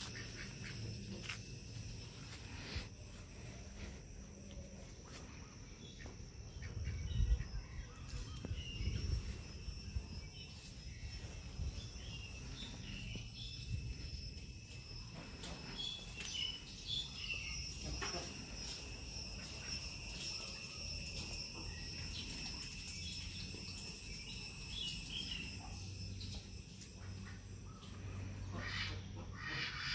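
Insects calling in a steady, unbroken high-pitched drone of several held tones, over a low rumble.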